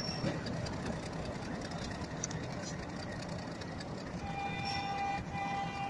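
Diesel locomotive-hauled train running over the station tracks with a steady rumble, and a horn sounding two long blasts near the end.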